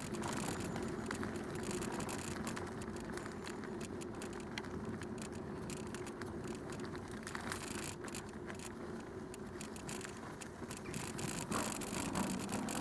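Bicycle rolling along a canal towpath: a steady rolling noise from the tyres, with many small ticks and rattles throughout.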